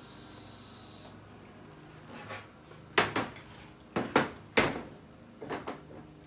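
A steady hiss with a high whine stops about a second in, then a string of about eight sharp knocks and clanks, the loudest three near the middle, as metal parts and tools are handled just after TIG welding.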